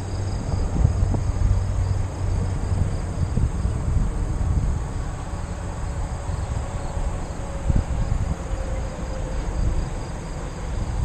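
Steady chorus of crickets or similar insects chirring from the trailside, over the low, uneven rumble of a bicycle being ridden.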